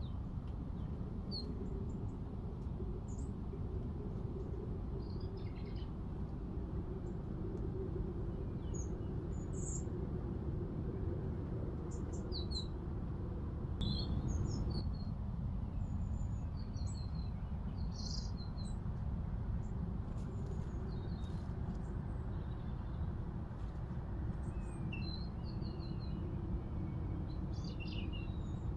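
Small garden birds calling: short, high chirps and tweets scattered irregularly throughout, over a steady low background rumble.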